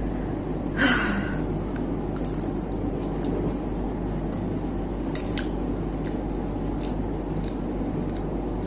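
Eating noodles from a dish: a louder scrape about a second in, then scattered light clicks of a utensil against the dish, over a steady low hum.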